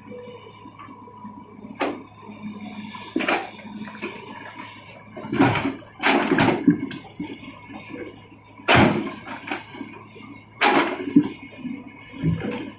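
A Hitachi excavator loading mountain stone into a dump truck: its engine hums steadily while rock crashes and clatters into the steel truck bed, about seven loud crashes a second or two apart.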